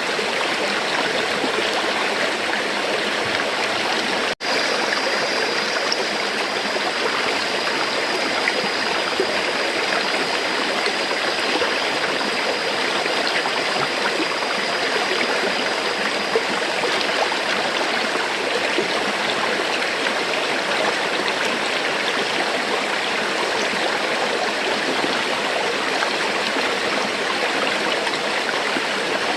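River water flowing and rushing steadily, an even hiss-like wash of moving water. About four seconds in the sound cuts out for an instant and resumes, like a splice in the recording.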